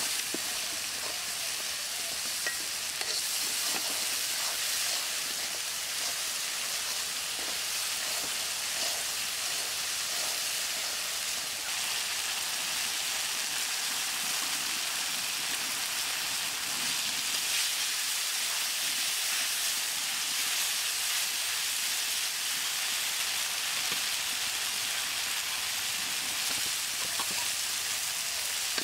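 Curry base sizzling steadily in hot oil in an iron karahi, with a metal spatula stirring and scraping in the pan.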